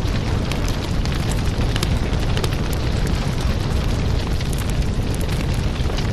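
Firewood burning in an open fire: a steady low noise of the flames with frequent, irregular sharp crackles and pops from the wood.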